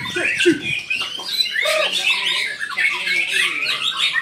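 Several white-rumped shamas (murai batu) singing at once in competition: a dense, overlapping chorus of rapid, varied whistles and chattering phrases.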